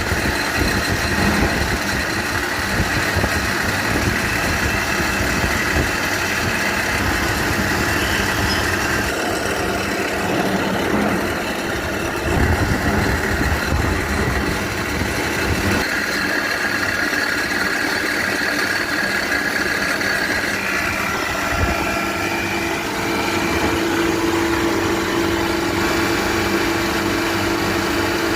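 Milling machine running and cutting a metal plate straight: a steady machining noise with a held whine whose pitch shifts a few times, dropping lower in the last few seconds.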